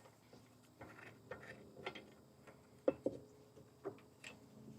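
Faint, scattered clicks and light knocks of small metal engine parts being handled, with a couple of sharper knocks about three seconds in.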